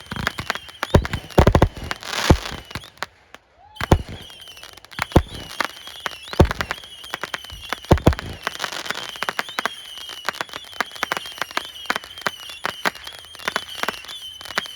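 Fireworks display: a rapid run of bangs and crackles with several louder booms, broken by a brief gap about three seconds in. A steady high-pitched tone runs underneath.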